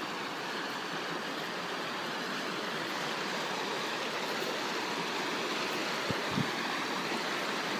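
Creek water rushing steadily over rocks and small cascades, an even hiss. Two soft thumps about six seconds in.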